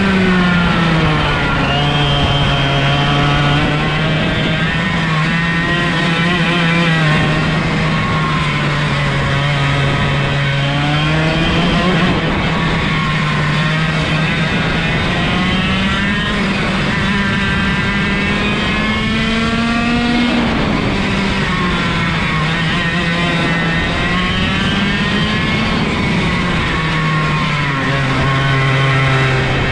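125cc two-stroke kart engine, direct drive with no gearbox or clutch, running hard under load. Its pitch drops away and climbs back up several times as the revs follow the kart's speed.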